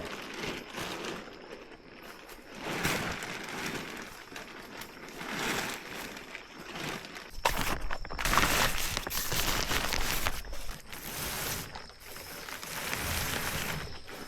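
Rustling and crunching of movement through dry leaves and brush, coming in swells and loudest about halfway through, over a faint steady insect whine.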